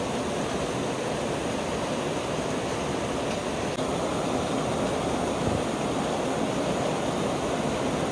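Heavy rain pouring down steadily, an even rushing hiss with no breaks.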